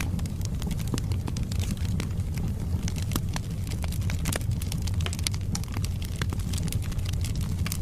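Wood fire crackling, with irregular sharp pops and snaps several times a second over a steady low rumble of burning.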